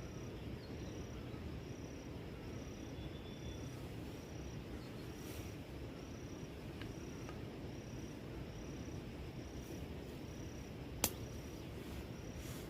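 An insect chirping in an even rhythm, a short high chirp repeating a little under twice a second, over a steady low background noise. One sharp click sounds near the end.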